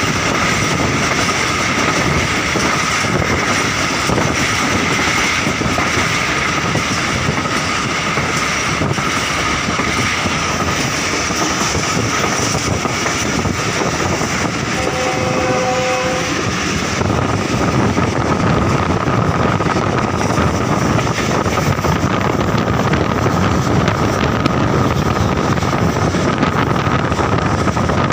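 Passenger train running along the track, heard on board: a steady rumble and rattle of the wheels and carriage, with a short steady tone about halfway through.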